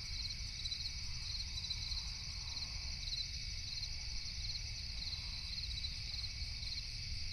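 Night-time insect chorus: a continuous high trill with short chirps repeating about one and a half times a second, over a steady low rumble.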